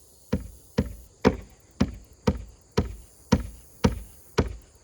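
Hammer driving loose roofing nails back down into the roof, about two steady blows a second.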